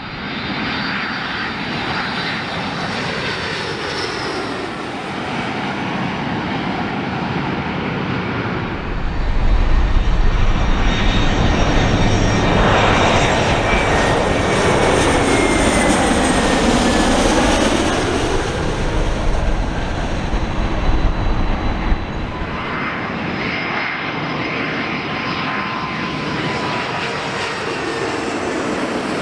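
Jet airliner passing close by: engine noise that swells to a loud, deep rumble for several seconds, with whining engine tones that slowly drop in pitch as it goes past, then eases back to a steady roar.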